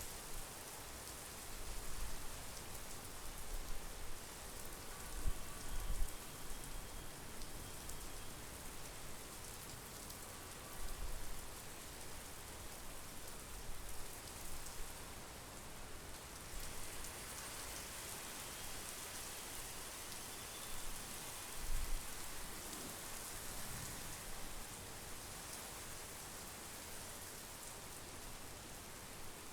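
Steady monsoon rain falling, an even hiss, with brief low rumbles every few seconds.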